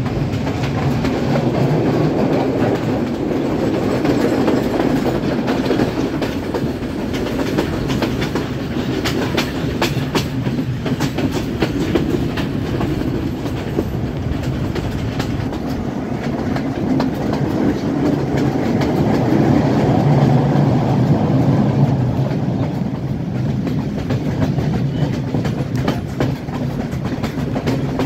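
Passenger carriages of a moving express train, heard from an open carriage window: a steady rumble of wheels on the rails, with clicks from the rail joints that come thickest about nine to twelve seconds in.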